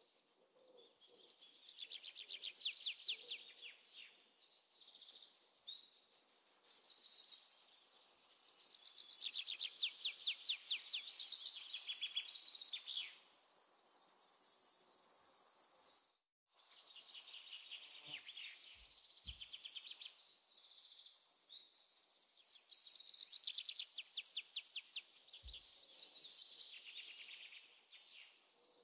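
A songbird singing in phrases of rapid high trills and repeated chirps a few seconds long, with short pauses between. It cuts out briefly about halfway through.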